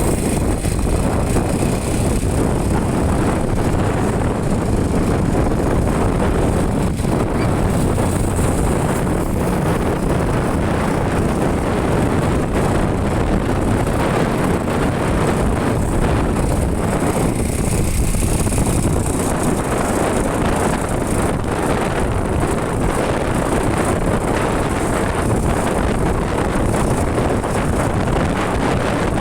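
Wind rushing over the microphone of a moving motorcycle, with road and engine noise underneath, steady and unbroken.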